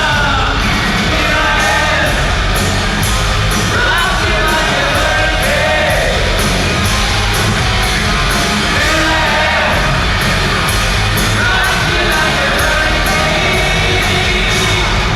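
A hard rock band playing live: distorted electric guitars, a steady drum beat and a singing voice, with shouts or yells over the music.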